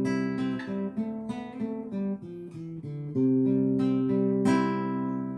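Acoustic guitar playing the instrumental opening of a slow song. Chords ring at the start, there is a quieter stretch of single picked notes about a second in, and then a full chord is struck again near the three-second mark and left to fade.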